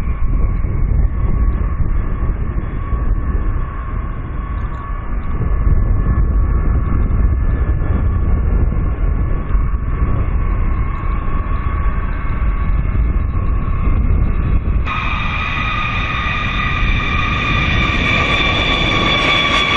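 Jet aircraft engines running with a loud, steady low rumble and a high whine. About 15 s in the sound changes abruptly to a brighter, higher whine.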